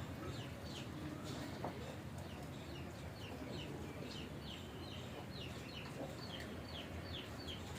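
A small bird chirping: a series of short, high chirps that fall in pitch, about two or three a second, starting a few seconds in, over a low steady hum.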